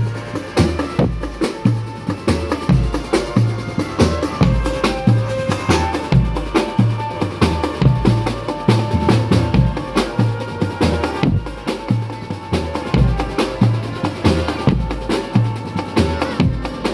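Marching drum band playing: bass drums beat a steady low pulse under fast, dense snare drum strokes, with a few held melody notes over the top.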